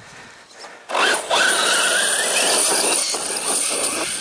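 Electric RC truck's brushless motor and drivetrain whining under throttle, starting suddenly about a second in with a short rising whine, then running steadily at speed.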